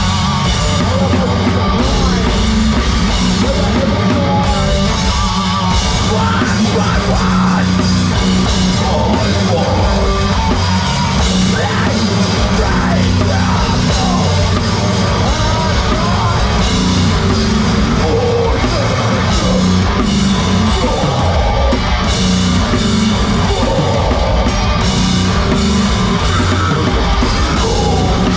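Heavy rock band playing live at full volume: distorted guitars, bass and pounding drum kit with shouted vocals, heard through a phone-style recording of a loud room.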